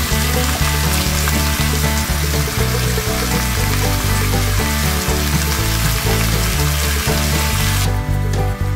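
Oil sizzling and frying in a cast-iron Dutch oven, with a beef roast and chopped onion in the pan, over background music with a steady bass line. The sizzle cuts off abruptly near the end while the music carries on.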